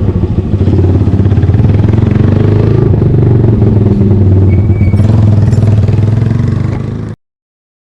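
Yamaha Fazer 153cc single-cylinder motorcycle engine running loud through a Daytona Dragex aftermarket exhaust with its dB killer removed, a rapid steady exhaust beat with slight rises and falls in pitch. It cuts off suddenly about seven seconds in.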